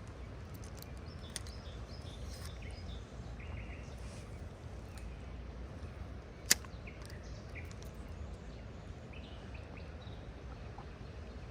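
Faint short bird chirps scattered over a steady low background noise, with one sharp click about six and a half seconds in.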